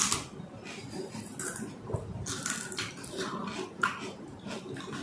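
Close-up eating sounds of panipuri being chewed: a run of short, irregular crunches and wet mouth noises.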